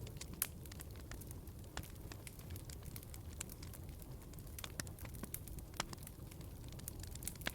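Wood fire crackling in a fireplace, with frequent irregular sharp pops and snaps over a low, steady rumble of the burning fire.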